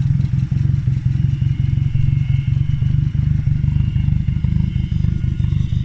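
Audi 80 engine idling steadily, running with its manual gearbox attached.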